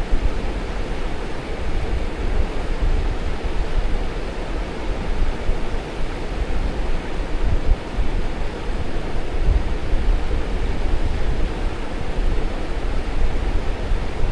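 Strong wind buffeting the microphone: a steady rushing noise with heavy, uneven low rumble.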